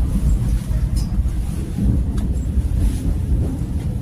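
Low, steady rumble of a new Dawonsys-built Seoul Subway Line 4 electric train running, with wind buffeting the microphone.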